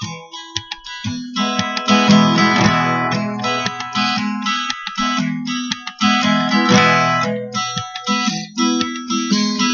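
Acoustic guitar strummed in a steady rhythm of chords, with short breaks between phrases.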